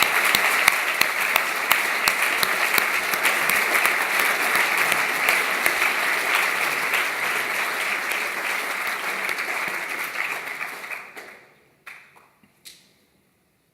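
An audience applauding: dense clapping that thins out after about eight seconds and stops about eleven seconds in, with a couple of last single claps just after.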